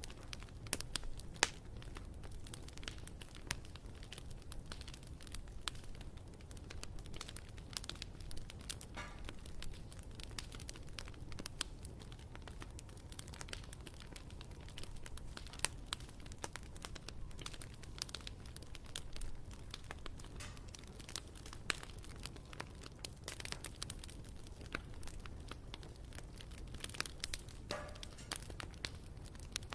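Wood campfire burning, with irregular sharp crackles and pops over a low, steady rumble of flame. A brief whistling hiss comes about nine seconds in and again near the end.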